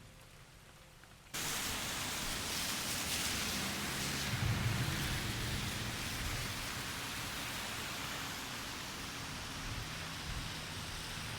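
Steady heavy rain, cutting in suddenly as an even rushing hiss about a second in after near quiet.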